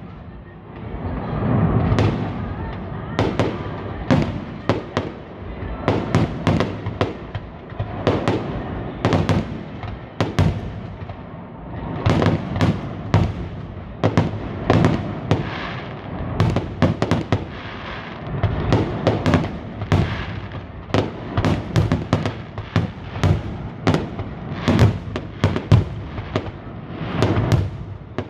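Fireworks exploding in a dense, continuous string of sharp bangs and crackles, several a second, over a low rolling rumble.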